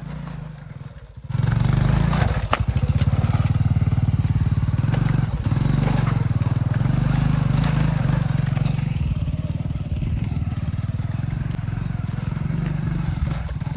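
Motorbike engine running hard, coming in suddenly about a second in and then holding steady, with a fast, even pulsing.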